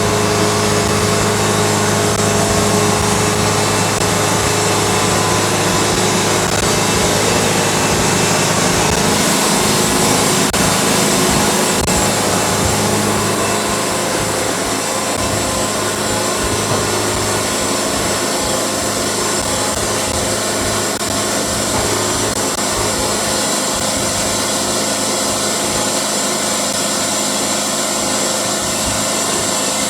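Wood-Mizer band sawmill running steadily, its blade cutting a cedar log, with the constant hum of the mill's engine under the noise of the cut.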